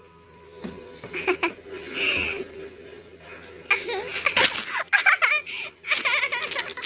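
A baby laughing and giggling in short bursts, the longest run coming about four seconds in.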